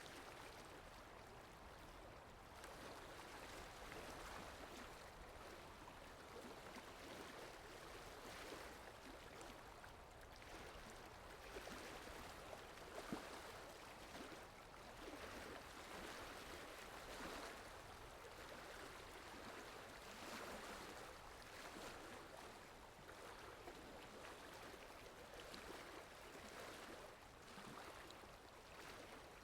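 Faint water ambience: an even hiss of rain or running water that swells and eases every few seconds, with one brief tick about 13 seconds in.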